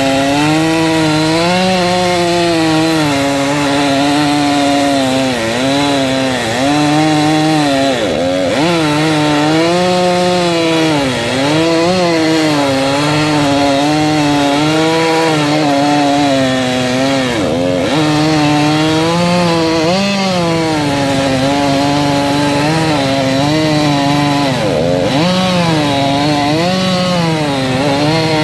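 Sawmill saw, powered by a 1926 Keck-Gonnerman steam tractor, cutting through a log: a loud, steady whine whose pitch wavers and sags about five times as the blade bogs down under the cut.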